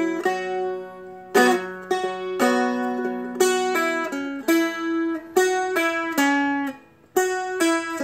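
Seagull Merlin, a dulcimer-style fretted instrument, picked in a slow melodic phrase of about a dozen single notes that climbs up the fretboard, each note ringing on into the next.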